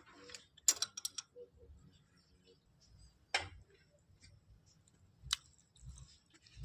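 Hand tools and metal parts clicking and clinking during carburetor work, with no engine running: a few sharp clicks about a second in, then single louder ones about three and a half and five seconds in.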